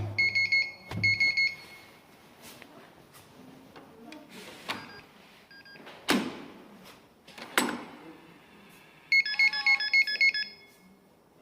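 Gateman R110-F digital door lock: two short runs of electronic beeps, then several clunks and knocks of the door and its latch, the loudest two about six and seven and a half seconds in, then a quick run of about seven electronic tones from the lock about nine seconds in.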